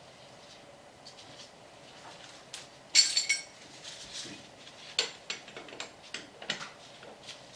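Hand tools and metal parts clinking and clattering, with one loud ringing metal clank about three seconds in and a run of sharper clicks and taps after it.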